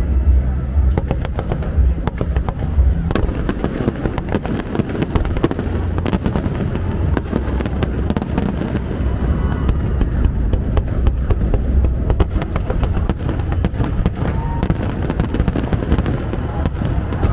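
Fireworks display: a dense, continuous run of sharp bangs and crackling pops over a steady low rumble.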